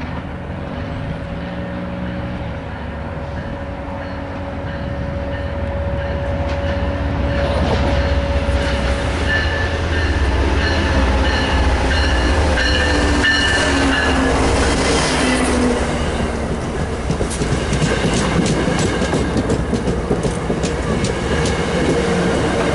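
MBTA commuter train with an HSP46 diesel locomotive pulling into a station: the diesel engine rumbles and grows louder as it nears, with a high steady squeal for several seconds midway. In the last few seconds the coaches roll past with quick clicking of the wheels over the rails.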